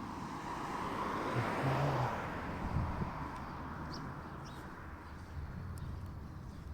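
A vehicle passing at a distance, its noise swelling over the first couple of seconds and then slowly fading away, with a few faint bird chirps.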